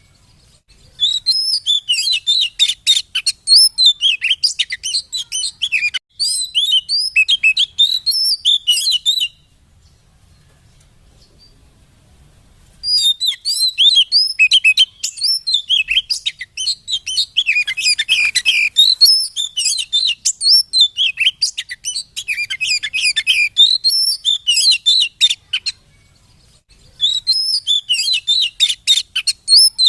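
Oriental magpie-robin (kacer) singing a fast, varied song of chirps, whistles and rattles in long bursts, with a pause of a few seconds about a third of the way in and a short break near the end. This is a provoking song, played to stir a kept bird into singing.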